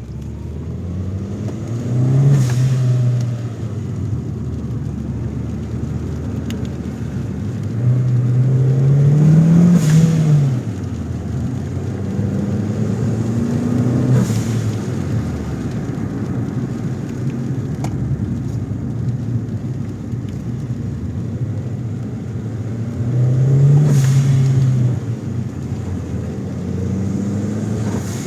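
Toyota Caldina GT-T's turbocharged four-cylinder idling and being revved four times, each rev cut off by the blow-off valve venting boost with a sharp, loud whoosh.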